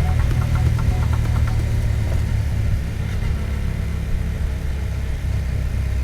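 Motorcycle engine running steadily with a low rumble, most likely the 2024 Yamaha MT-07's 689 cc parallel twin heard from the rider's position. It eases off a little about halfway through.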